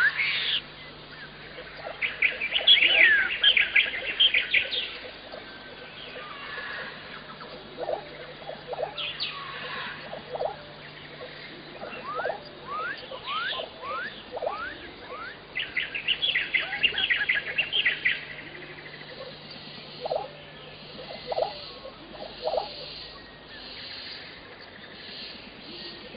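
Birds chirping outdoors, a run of quick rising chirps with two dense bursts, one a couple of seconds in and another just past the middle.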